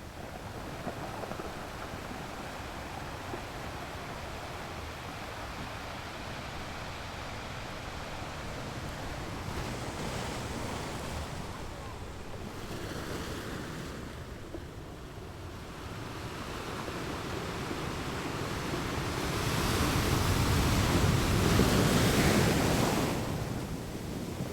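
Ocean surf with wind buffeting the microphone, a steady rush that swells louder as a wave breaks near the end.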